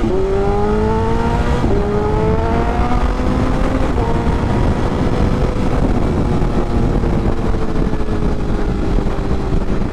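BMW S1000RR's inline-four engine pulling through the gears: the pitch rises, drops back with an upshift about two seconds in and again about four seconds in, then holds nearly steady at cruising speed, with wind rush over the helmet-mounted microphone.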